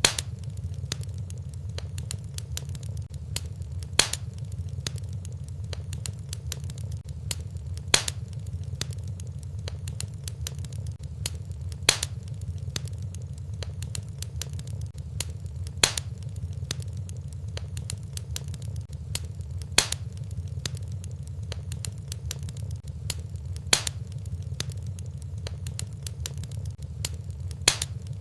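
Fireplace wood fire crackling: a steady low rumble with many small crackles and a louder sharp pop about every four seconds, evenly spaced as in a looped recording.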